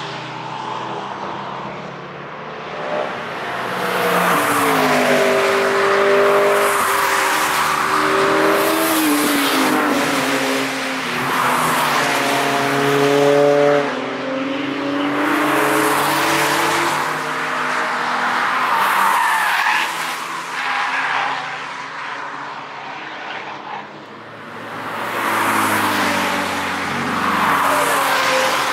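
Cars driven hard passing one after another, each engine note climbing as it accelerates and then fading, in several swells.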